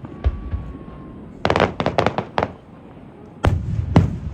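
Aerial fireworks going off: a faint whistle and a single bang, then a quick run of sharp crackling reports, and two loud booms about half a second apart near the end.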